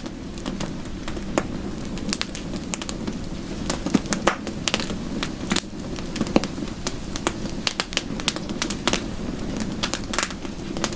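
Fireplace fire crackling with frequent, irregular sharp pops over a steady low rush of soft rain.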